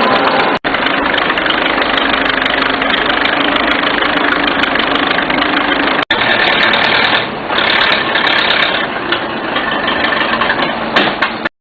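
Fordson four-cylinder engine of a Malcolm Moore rail tractor running steadily, loud and rough, with two momentary dropouts and a sudden stop near the end.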